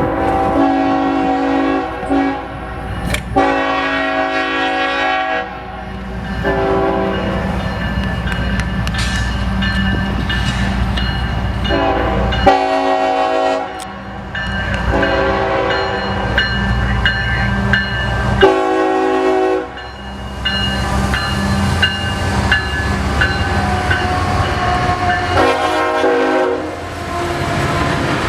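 Train horn sounding several long chord blasts over the continuous low rumble of a passing train, with the wheels clattering on the rails and a steady high squeal between the blasts.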